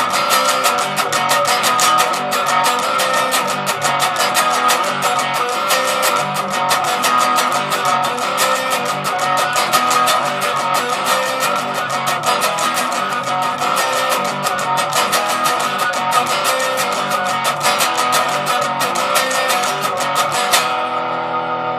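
Les Paul electric guitar played through an amp's distortion channel with no effects, picked fast and steadily. Near the end the picking stops and the last chord is left ringing.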